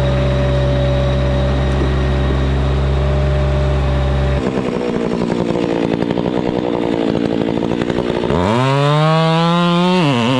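A heavy engine runs steadily at a low hum, then gives way about four seconds in to a chainsaw idling with a fast put-put. Near the end the chainsaw revs up to full speed and holds there, dipping briefly once.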